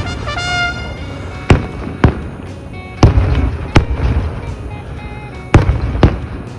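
Fireworks display: aerial shells bursting with about six sharp bangs spaced roughly half a second to a second and a half apart, over a continuous low rumble.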